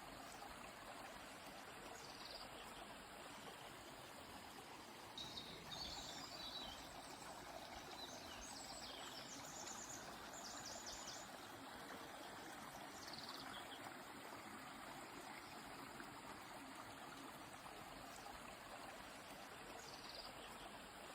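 A river flowing steadily with a soft, even rush of water. Songbirds call faintly over it in the middle, with a few high chirps and one fast trill.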